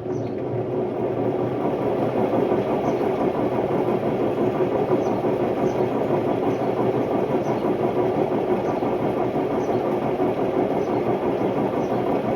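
Hotpoint Ultima WMD960 washing machine on spin, giving a loud, steady roar from its worn drum bearings. The roar builds over the first couple of seconds and then holds.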